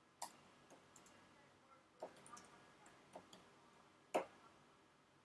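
Near silence with a few faint, sharp clicks at irregular intervals, the loudest about four seconds in.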